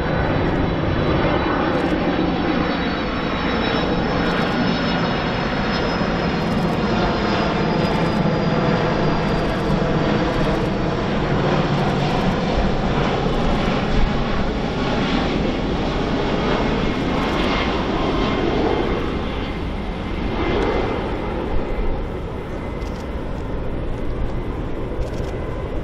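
Boeing 767 jet airliner passing close by on landing approach, its engines running with a steady rush and a high whine that slowly falls in pitch. It eases off somewhat after about 20 seconds as the plane moves away.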